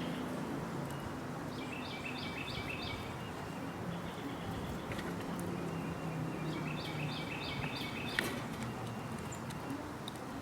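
A small bird calling twice, each call a quick run of about five high notes, over a steady low hum in a backyard; a single sharp click about 8 seconds in.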